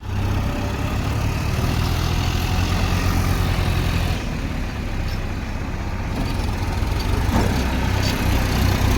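Heavy vehicle engine running with a steady low rumble. It eases off about four seconds in and builds up again near the end.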